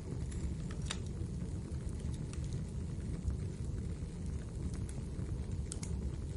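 Wood fire burning in a fireplace: a steady low roar of flames with scattered sharp crackles and pops from the burning logs.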